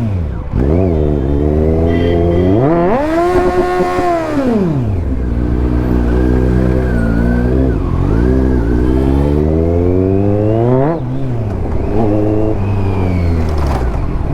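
Kawasaki Z900's inline-four engine being revved, its pitch rising and falling several times. A long climb in the middle ends in a sudden drop about eleven seconds in.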